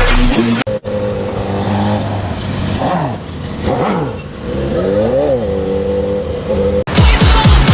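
An engine idling, then revved up and back down about three times in the middle. Electronic music breaks off about a second in and comes back near the end.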